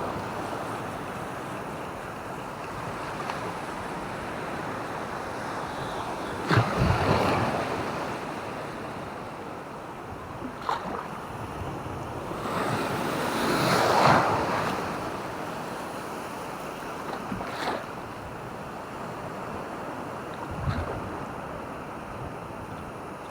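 Sea waves washing onto a beach: a steady surf wash, with louder breaking waves about seven seconds in and again around fourteen seconds.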